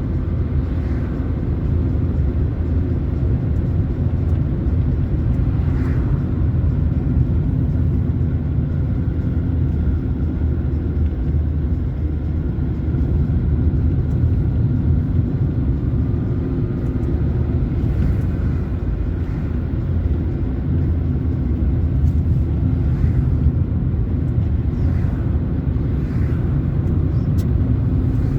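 A car driving along a road: a steady low rumble of engine and road noise at an even level.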